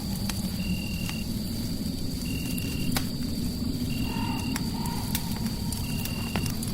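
Crackling fireplace: scattered sharp pops and crackles over a low, steady rumble of fire. Behind it sit a thin high steady tone and a short high chirp that repeats four times, about every second and a half to two seconds.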